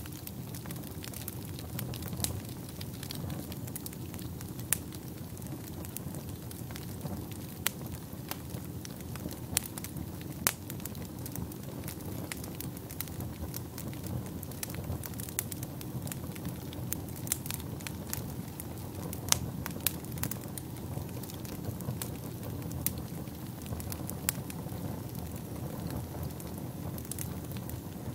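Wood fire burning in a fireplace: a steady low rushing of flames with irregular sharp crackles and pops, a few of them much louder than the rest.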